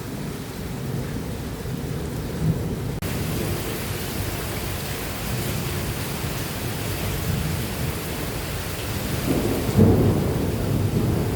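Heavy rain pouring during a thunderstorm, with steady low rumbling thunder underneath. The rain hiss grows louder suddenly about three seconds in, and a louder rumble swells near the end.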